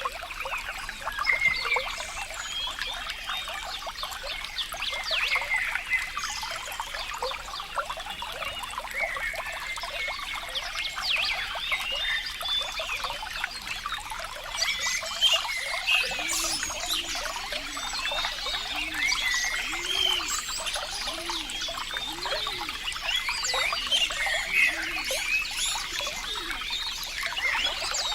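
Water trickling and gurgling in a dense, steady patter. From about halfway through, low rising-and-falling gurgles come roughly once a second.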